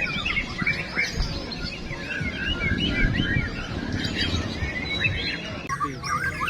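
Several caged songbirds singing at once in quick, overlapping chirps and whistled phrases, over a steady low background noise.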